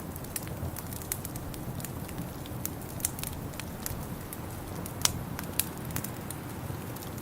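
Wood fire in a fireplace crackling, with frequent small pops over a steady low rumble; the sharpest pop comes about five seconds in.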